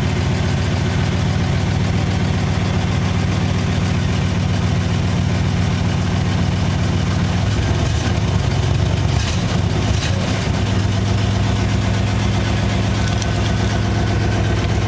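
Studebaker engine idling soon after a cold start, fed by a freshly rebuilt 400 cfm Carter AFB four-barrel carburetor with a manual choke. The engine note wavers and changes about eight seconds in, then runs steady again.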